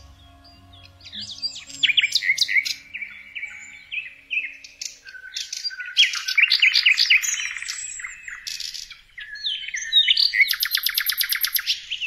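Several birds chirping and whistling in overlapping short calls, with a fast trill of rapidly repeated notes near the end.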